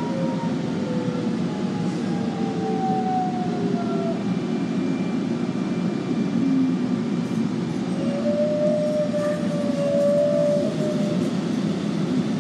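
Electric suburban train heard from inside the carriage as it runs: a steady low rumble of wheels and running gear, with a motor whine that falls in pitch over the first few seconds as the train slows, and a short steady whine a little later.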